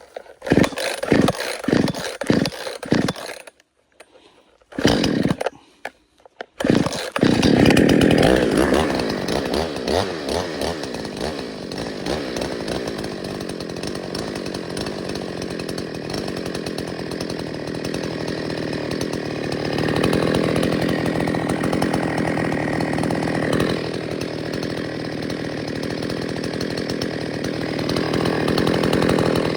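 Two-stroke chainsaw being started: a run of short sputters and two brief bursts with silent gaps, then it catches about seven seconds in and keeps running, revving up a few times.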